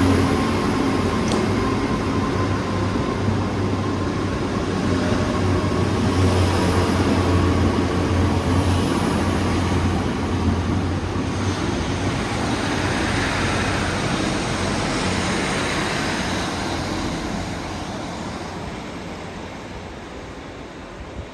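Diesel train running past with a steady low engine hum, which weakens about halfway through while the train's noise carries on, then fades away over the last few seconds.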